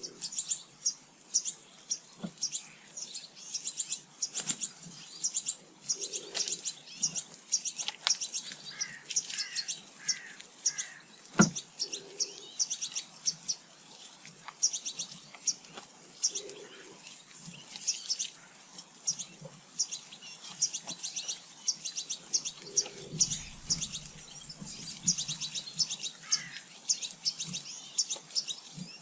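Small garden birds chirping and calling busily at feeders, with a low short call repeating every five or six seconds and a single sharp knock about eleven seconds in.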